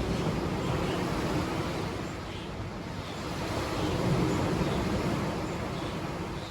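Sea surf washing onto a beach, the rush of water swelling to its loudest about four seconds in and then easing back, with faint short high chirps above it.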